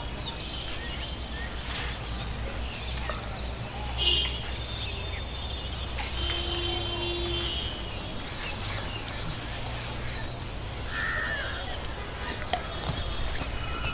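Outdoor ambience of scattered bird calls over a steady low hum, with the loudest call about four seconds in.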